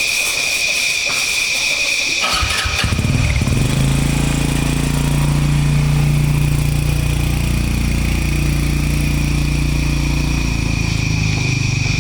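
A small engine starts about two and a half seconds in and settles into a steady run, over a steady high-pitched drone.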